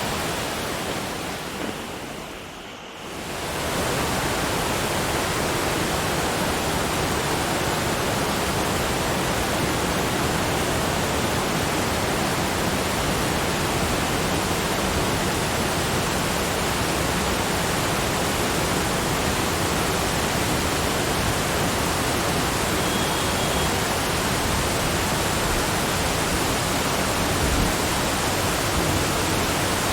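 Steady, even rushing of water, like a waterfall, with no distinct events; it fades down briefly about two to three seconds in and comes straight back up.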